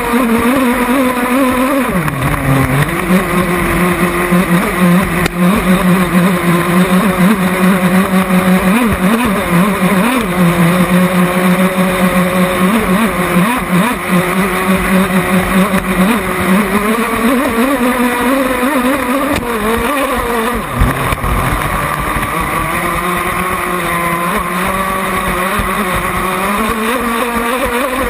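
A small boat's engine running continuously, its pitch dipping about two seconds in and wavering up and down as the throttle changes.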